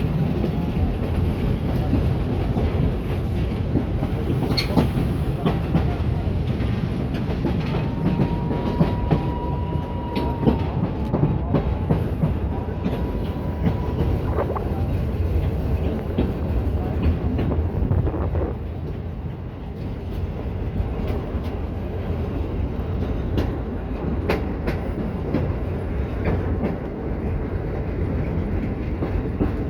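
Train hauled by the 031T steam tank locomotive No. 3714 running along the track: a steady rumble with irregular clicks of wheels over rail joints. A thin steady high tone lasts about two seconds around eight seconds in, and comes again more faintly a little later.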